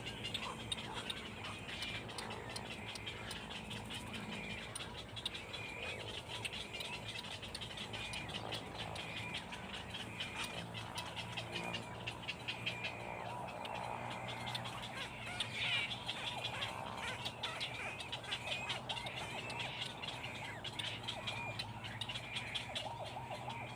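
Dense chorus of frogs calling, short calls repeated many times a second without a break, with bird chirps mixed in.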